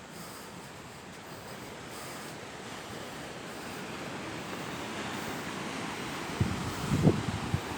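Sea surf washing on the shore, a steady rush that slowly builds in loudness, with a few brief low sounds near the end.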